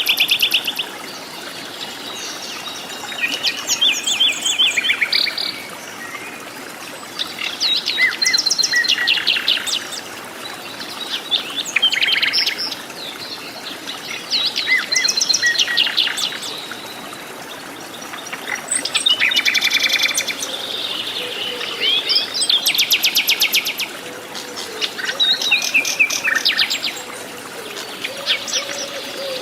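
Forest birds singing: phrases of rapid trilled, chattering notes recur every three or four seconds over a steady background hiss.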